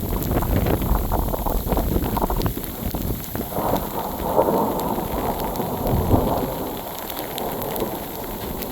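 Thunder rumbling and rolling through a sleet storm, swelling a few times, with sleet pellets ticking and pattering down.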